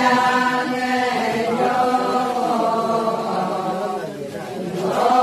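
Ponung chant: a long sung phrase of held, gliding notes. It fades about four seconds in, and the next phrase begins near the end.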